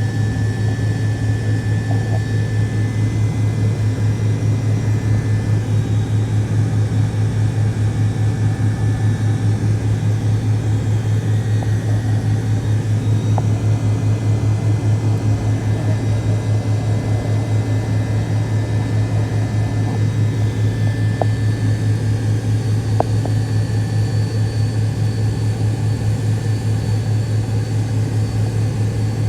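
Cabin noise of a McDonnell Douglas MD-88 at a rear seat near its tail-mounted Pratt & Whitney JT8D turbofan engines: a loud, steady, deep drone with a fast, even pulsing. A few faint clicks come in the second half.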